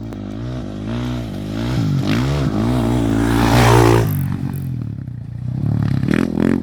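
Off-road race motorcycle engine passing close by, revving up and down through the gears, loudest a little before halfway through and then falling away. A second engine builds near the end.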